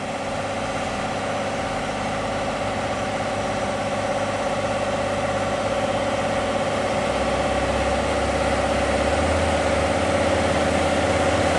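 Heavy truck's diesel engine running steadily, slowly growing louder, with a deeper low rumble building from about seven seconds in.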